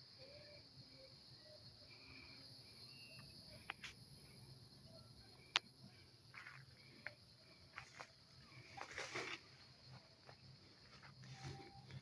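Faint, steady, high-pitched insect chirring, with a few sharp clicks and a brief rustle about nine seconds in.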